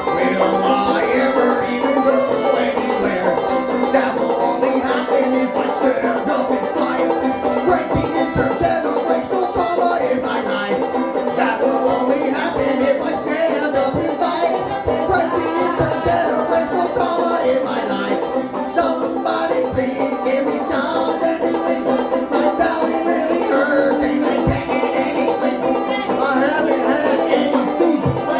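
Bluegrass-style string band music with banjo, playing steadily.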